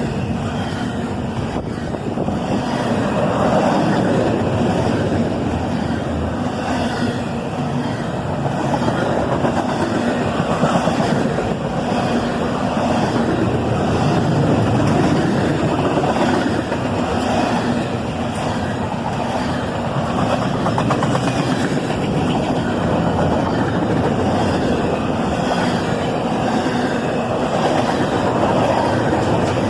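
CSX double-stack intermodal train's cars rolling past: a steady rumble and roar of steel wheels on the rails, with a low hum underneath.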